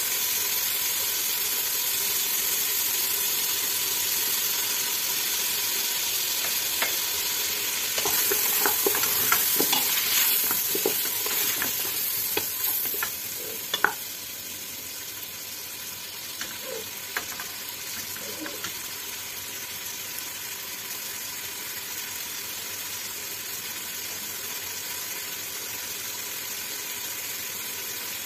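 Meat and onion sizzling in hot oil in a pressure-cooker pot, stirred with a wooden spatula. From about 8 to 14 seconds in, the stirring is louder, with scrapes and knocks of the spatula on the pot; after that the sizzle goes on more quietly.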